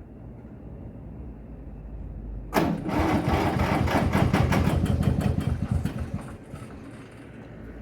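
Sachs one-cylinder two-stroke diesel of a 1958 Hummel DT tractor being cranked on its starter. About two and a half seconds in it sets off suddenly in a fast, regular chugging beat for about three and a half seconds, then dies away without running on. The owner thinks the battery may be weak.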